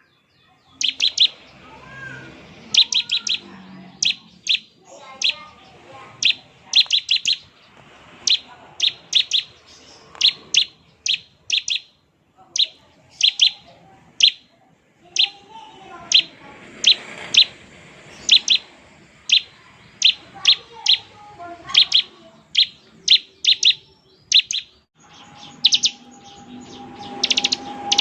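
Bar-winged prinia (ciblek) calling in its 'ngebren' style: short bursts of several rapid, sharp high notes, repeated about once a second with brief pauses.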